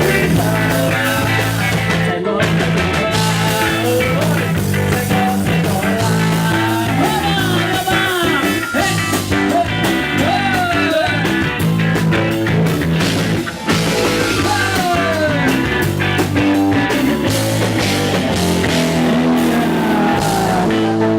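Band music: a rock-style song with electric guitar over a steady, repeating bass line, with sliding melody lines above it.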